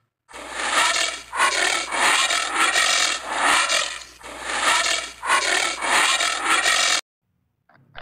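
Tapirs eating from a feeding trough, a loud, rough chewing and crunching that swells and fades in uneven waves about twice a second and cuts off abruptly about a second before the end.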